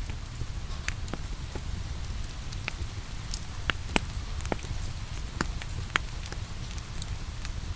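Wood fire crackling in a fireplace with irregular sharp pops over a steady low rumble, mixed with falling rain.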